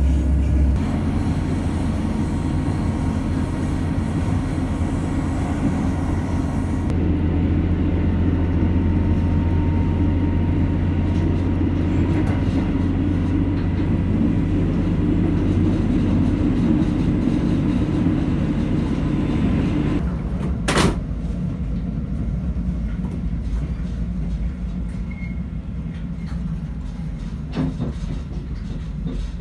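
Diesel local train heard from inside the carriage, its engine and wheels running with a steady low hum and rumble that eases off as the train slows into a station. A sharp knock comes about 21 seconds in and a smaller one near the end.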